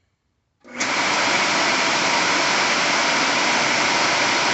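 EBG20C Square Scrub orbital floor scrubber's electric motor switched on about two-thirds of a second in, coming straight up to speed and running steadily. This is its test run with a freshly rebuilt top end: a new bearing and thrust washer.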